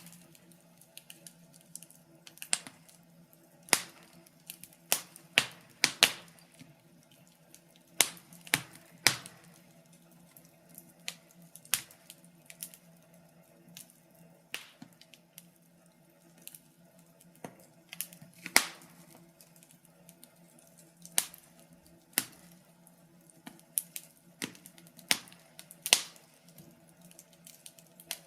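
Wood fire crackling: irregular sharp pops and snaps, some much louder than others, over a low steady hum.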